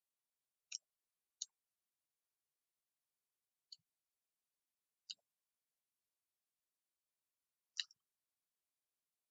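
Five short, sharp clicks from someone eating a meal, spread unevenly over several seconds against near silence.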